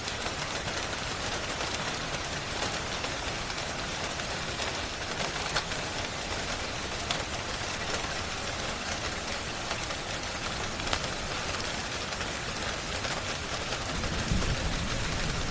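Steady rain ambience mixed with a wood fire, with scattered small sharp crackles over an even hiss. A low rumble comes in about a second and a half before the end.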